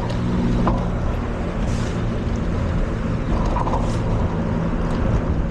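A motor vehicle's engine running steadily close by in street traffic, over a constant rush of road and wind noise.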